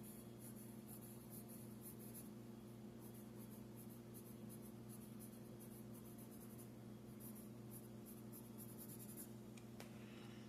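Faint pencil scratching on paper in quick, repeated strokes as the bird is shaded, over a steady low electrical hum. The strokes stop about nine seconds in.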